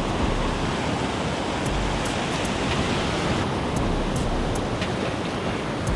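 Ocean surf breaking and washing on a beach, a steady rush of noise, with wind rumbling on the microphone.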